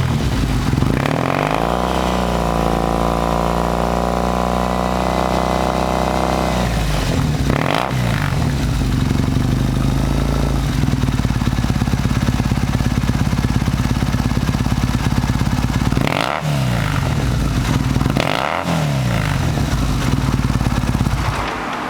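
Triumph Bonneville parallel-twin engine running through Flakes trumpet slip-on mufflers. It is blipped twice, held at high revs for about five seconds, then idles between short, sharp throttle blips.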